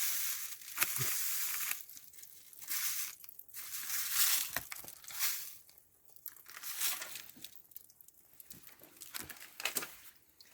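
Packet of citric acid powder crinkling and rustling in irregular bursts as it is squeezed and emptied into the engine block to flush the cooling system.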